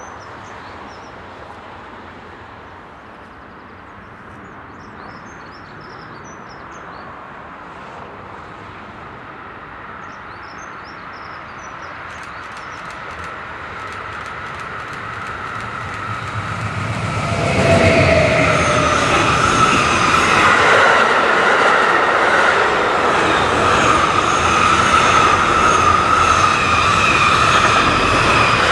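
Small birds chirping over a faint distant rumble, then a train approaching and growing steadily louder. It passes close by for the last ten seconds or so: loud wheel-on-rail rumble with a steady high-pitched ringing whine over it.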